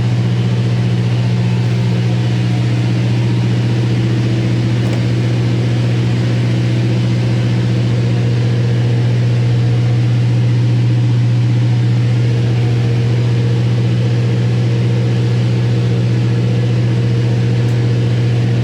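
An engine running at a steady speed: a loud, constant low drone with no change in pitch.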